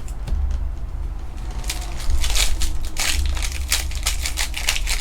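Trading-card packaging being crinkled and crumpled by hand: dense crackling that picks up about two seconds in, over a steady low hum.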